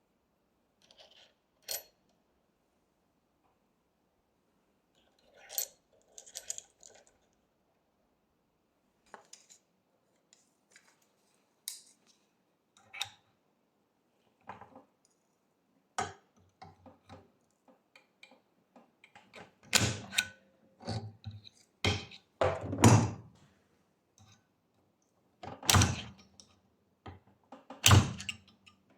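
Hand tools and metal parts being handled: scattered clinks and knocks, sparse at first and growing louder and more frequent in the second half, with several hard thunks.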